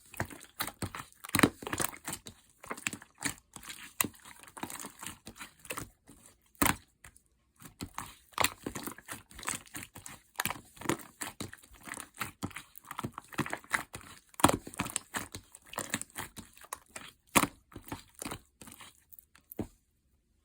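Purple slime being squeezed and pressed by hand, giving an irregular run of sharp clicks, crackles and pops that stops shortly before the end.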